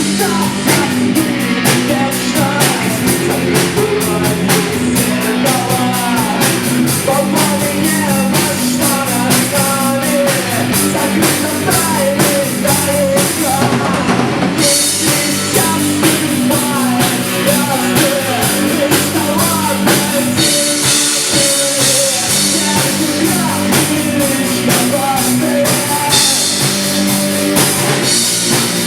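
Live rock band playing: a drum kit keeping a steady beat under guitar.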